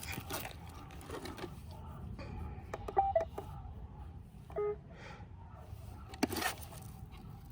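Roomba 671 robot vacuum playing short electronic beep tones: a quick pair of steady notes about three seconds in and another short tone past the middle, with a sharp click near the end.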